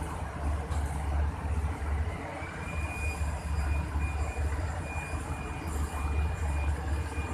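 Empty passenger train rolling slowly in reverse, with a low rumble. About two seconds in a thin high wheel squeal starts and comes and goes.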